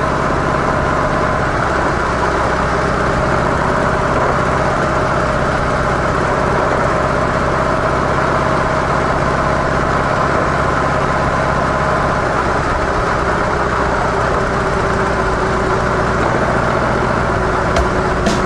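Harley-Davidson CVO Softail Deluxe's V-twin engine through its stock mufflers, running at a steady, unchanging pace, with a haze of road and wind noise beneath it. A few sharp clicks come right at the end.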